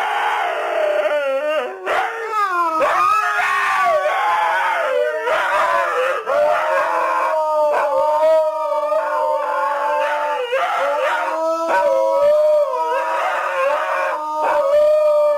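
Dog howling in long, drawn-out calls that waver up and down in pitch, then hold a steadier note through the second half.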